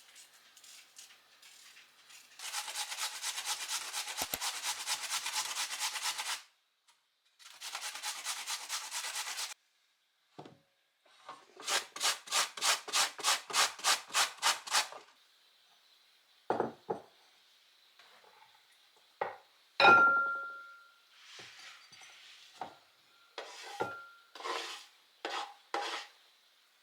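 Household scraping by hand in several runs, the longest about four seconds. One run has even strokes about three or four a second. Scattered knocks follow, with a short ringing clink about twenty seconds in, the loudest moment.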